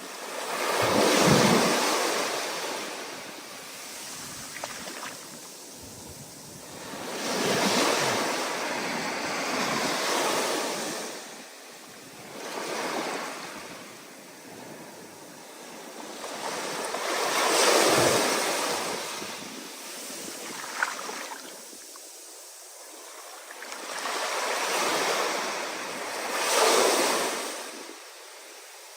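Ocean surf in rough, stormy conditions: waves surging in and breaking one after another every few seconds, each swell rising and fading away, with wind in between.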